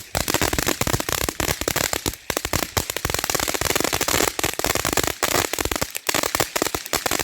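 A firecracker string going off: a fast, unbroken run of sharp bangs that crackle on for several seconds.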